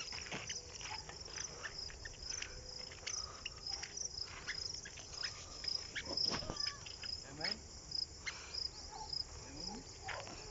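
Crickets chirping in a steady high-pitched chorus, with scattered short clicks and taps throughout.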